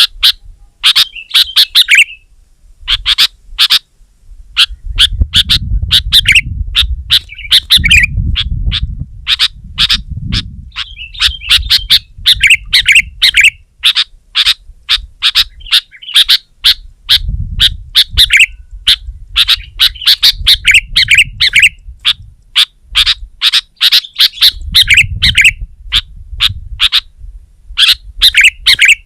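Sooty-headed bulbuls (kutilang) calling hard and without pause: a rapid run of short, sharp chirps with brief warbled phrases between them. A low rumble comes and goes underneath in several stretches.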